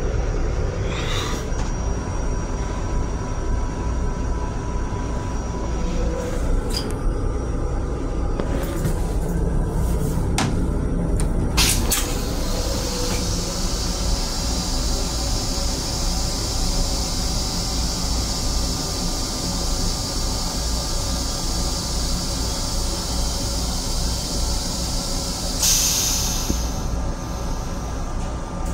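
Running noise of a Metro-North M7 electric railcar heard from inside its restroom: a steady low rumble of the moving train. A few sharp clicks come about ten seconds in, then a steady hiss joins the rumble.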